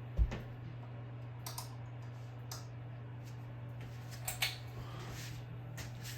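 Hampton Bay Landmark ceiling fan's motor giving a steady low buzz, the buzz these fans are known for. A knock about a quarter second in and a few light scattered clicks sound over it.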